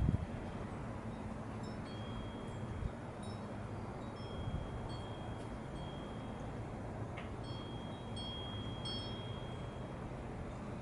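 Light chiming: clear high ringing tones, some held about a second, with several sounding together near the end, over a steady low background rumble.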